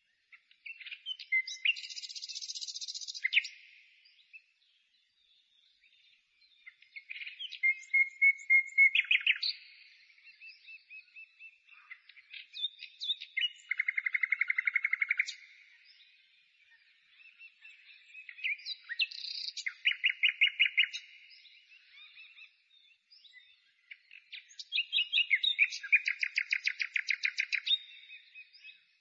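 A songbird singing in separate phrases of chirps and rapid trills, about five phrases with short pauses between them.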